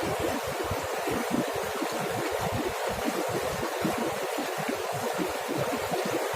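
Waterfall: water falling and running in a steady, unbroken rush.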